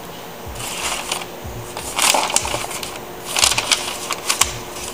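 Rustling and sharp clicks of small objects being handled, in four short bursts.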